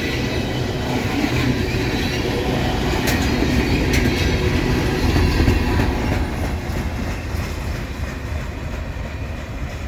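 Loaded ethanol tank cars at the end of a freight train rolling past, a steady rail rumble with a couple of sharp wheel clicks about three and four seconds in. The rumble eases off somewhat in the second half as the last cars go by.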